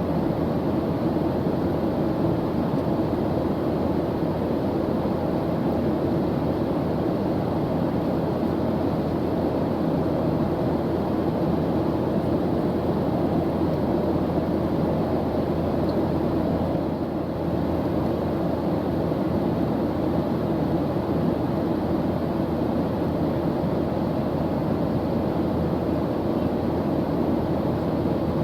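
Airplane engine running steadily in flight: a constant low, even drone, dipping slightly for a moment about seventeen seconds in.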